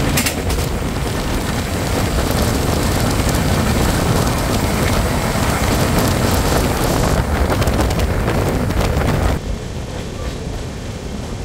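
Loud, steady rushing noise of a moving passenger train: running rumble mixed with wind. About nine seconds in it drops abruptly to a quieter, duller rumble.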